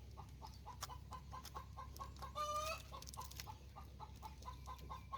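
A hen cackling faintly: a run of short clucks, about three a second, broken once near the middle by a longer drawn-out squawk. This is the egg song of a hen that has just laid.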